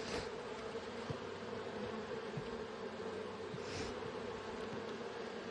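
Honey bees buzzing in a steady, even hum around a hive that is open for inspection. A couple of brief soft rustles come through, one at the start and one a little before four seconds in.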